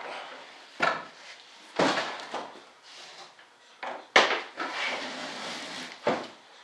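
Handling noise: four sharp knocks and bumps, the loudest a little past the middle, with scraping and rustling between them.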